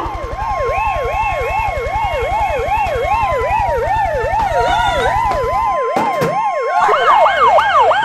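A siren sweeping up and down quickly, about three times a second, over a steady tone. A few knocks come about six seconds in, and near the end a second, louder and higher siren sweeps in.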